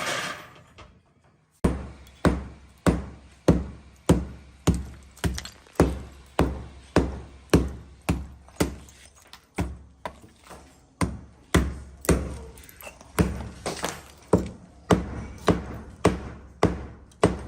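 Steady hammering on wood, about two dull thudding blows a second, starting about a second and a half in.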